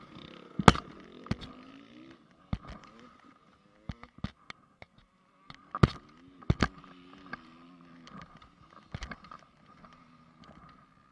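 Honda CRF450 single-cylinder four-stroke motocross bike running at low revs, its engine note rising and falling, over a run of sharp knocks and rattles.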